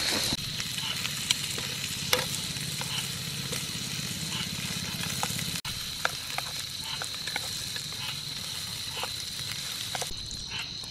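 Pork ribs and garlic sizzling in a small pan over a wood fire, with a utensil tapping and scraping against the pan as they are stirred.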